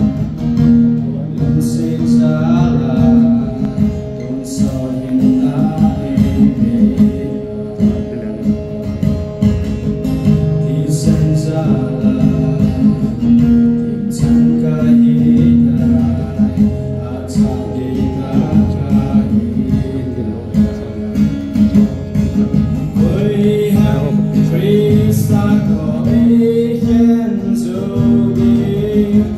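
A hymn sung to acoustic guitar accompaniment, the melody held in long sustained notes over steady strummed chords.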